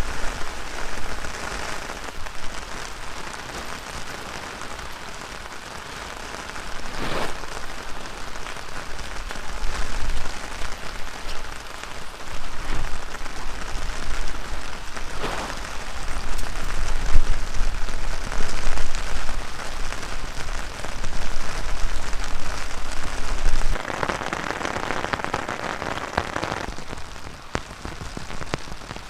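Heavy rain falling steadily, with gusts of strong wind rumbling on the microphone that rise and ease off.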